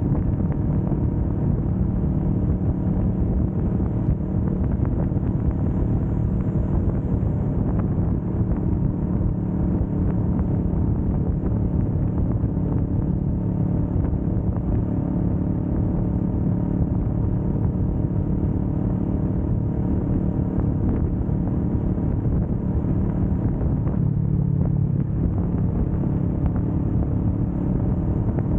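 Kawasaki Vulcan S 650's parallel-twin engine running at a steady speed while the motorcycle cruises, an even low drone.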